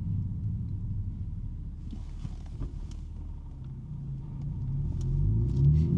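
2023 BMW M3 G80's twin-turbo inline-six, fitted with a non-resonated J-pipe exhaust, running at a steady low drone while driving, then accelerating from about halfway through, its pitch rising as it gets louder.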